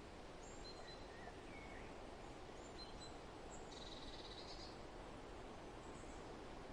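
Faint forest ambience: a steady rustle of wind through leaves, with scattered high bird chirps and a short, rapid bird trill about four seconds in.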